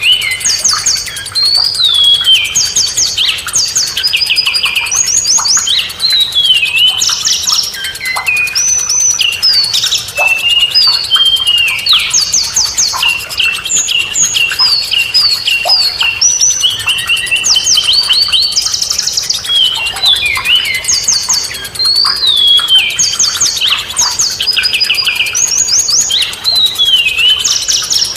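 Busy, continuous songbird song: rapid high chirps, trills and down-slurred whistled notes overlapping one another without a break.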